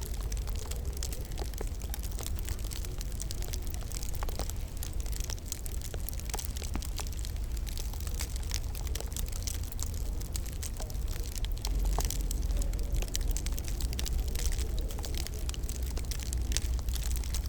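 Wood fire crackling in a fireplace: irregular small snaps and pops over a steady low rumble of the burning fire.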